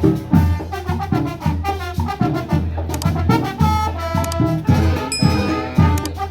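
Marching band playing a brass tune over a steady bass drum beat, about two strokes a second, with a held brass chord in the middle.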